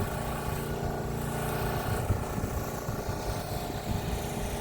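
Strong wind buffeting the microphone in an uneven low rumble.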